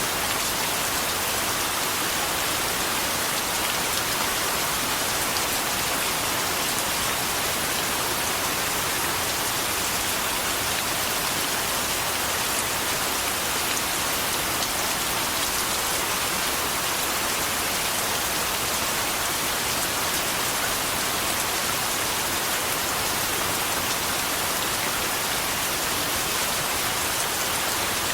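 Steady rain falling and pattering on a surface, an even hiss with fine drop ticks and no change in intensity.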